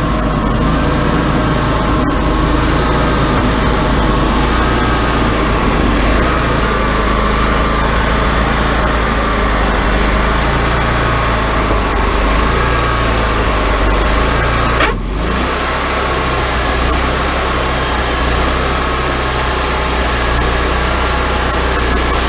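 Wood-Mizer LT40 hydraulic sawmill running steadily, its engine and band saw blade working, with a wavering whine over the engine noise. The sound dips briefly about fifteen seconds in.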